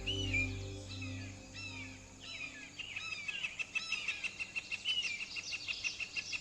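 Several birds chirping and calling over one another in quick, curving notes. From about halfway a fast, even pulsing call joins in, about eight pulses a second.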